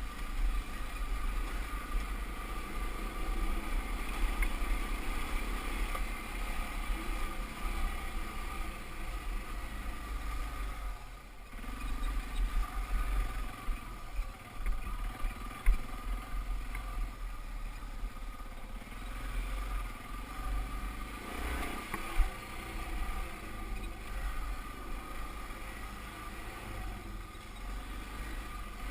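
Dirt bike engine running while riding a rough trail, over a heavy low wind rumble on the microphone. The engine eases off briefly about eleven seconds in, and two sharp knocks stand out later on.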